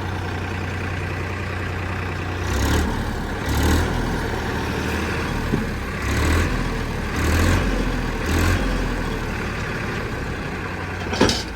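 Heavy diesel engine idling, then revved in five short bursts, each swelling and falling back. A sharp clank near the end.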